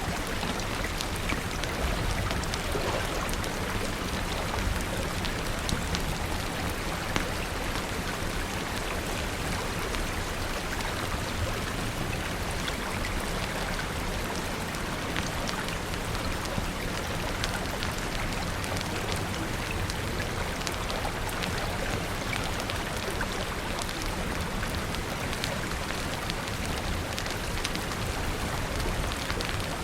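Steady rain falling, a dense even hiss with scattered sharp drop ticks all through.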